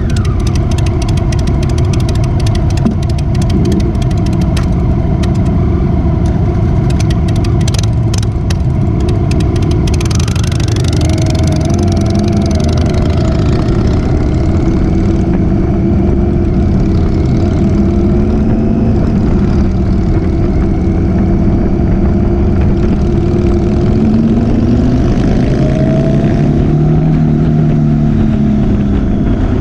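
Motorcycle engine running on the move, its pitch rising and falling with the throttle from about ten seconds in, over a steady heavy rumble of wind on the camera microphone. A run of sharp clicks crackles through the first ten seconds.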